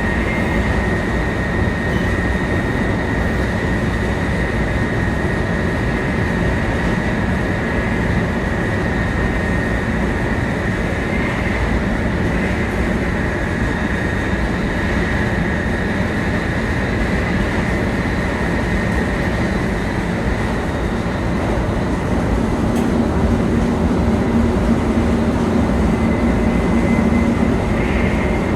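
700 series Shinkansen cruising, heard from inside a passenger car: a steady rumble of wheels and rails with a constant high whine over it, a little louder in the last few seconds.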